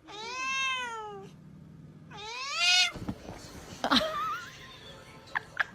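Domestic cat meowing twice, two long drawn-out meows that rise and fall in pitch, followed by a few light clicks and knocks.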